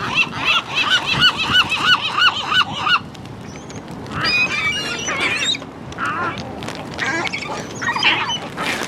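Gulls calling: a fast run of repeated arched call notes, about three a second, that breaks off about three seconds in, followed by scattered shorter calls.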